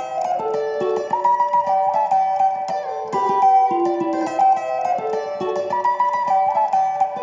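A guitar playing a sebene lead line: a fast, bright run of picked notes high on the neck, with pull-offs and two-string figures, repeated as a looping phrase.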